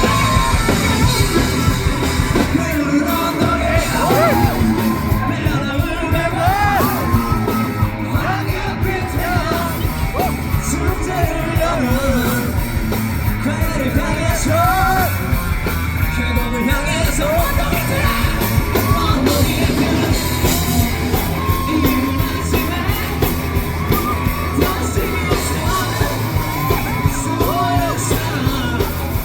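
Korean rock band playing live through a loud amplified sound system, a singer singing and shouting over a driving beat.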